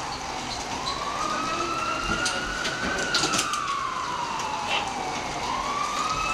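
A siren wailing slowly up and down: it climbs for about two seconds, falls over the next two and a half, and starts to climb again near the end. A few short clicks sound over it.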